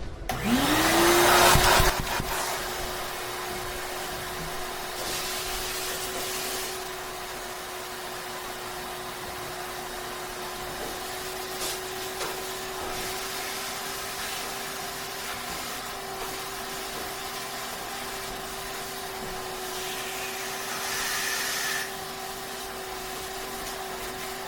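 Shop vac switched on: its motor whine rises quickly to a steady pitch and keeps running steadily. There are two louder stretches of hiss, one around five seconds in and one near the end.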